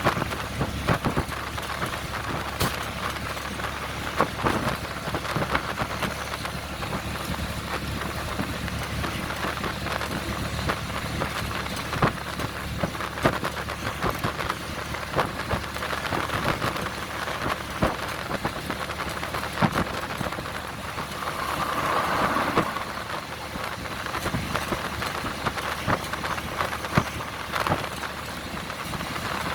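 Train running: a steady rumble with frequent irregular clicks and rattles, and a brief swell about two-thirds of the way through.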